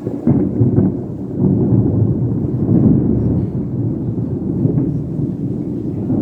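A long, deep roll of thunder from an electrical storm. It swells sharply just after the start and rumbles on with a few louder peaks.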